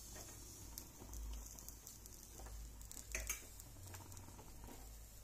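Faint sizzling of an egg omelette frying in oil in a non-stick pan, with a few light clicks and scrapes; the loudest comes about three seconds in.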